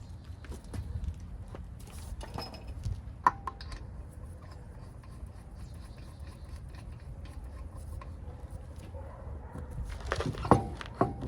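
Scattered metallic clicks and knocks of tools and parts being handled, over a steady low rumble, with a cluster of sharper knocks near the end.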